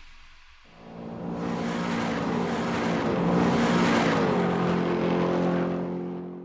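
Race car engine running at speed, starting suddenly about a second in, growing louder and then fading away.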